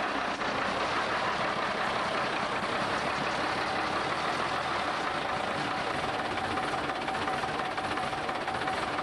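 Gardner 6LW six-cylinder diesel engine of a 1942 Guy Arab bus running steadily with a diesel knock, being run after a long lay-up. A steady whine sits above the engine note.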